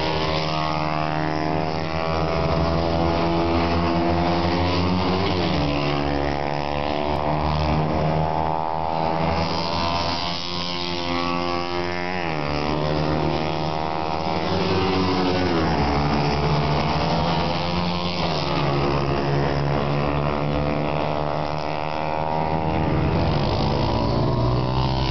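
Superbike racing motorcycle engines at high revs, the pitch climbing and dropping back again and again as the bikes accelerate and change gear.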